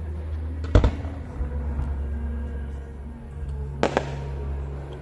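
Firework shells bursting overhead: two sharp bangs in quick succession about a second in, and another close pair near four seconds in, each with a brief rumbling tail. Music plays underneath throughout.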